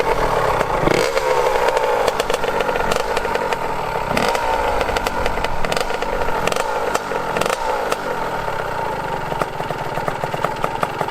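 Honda CR85 two-stroke dirt bike engine being ridden, revving up and easing off over and over, then running steadier near the end.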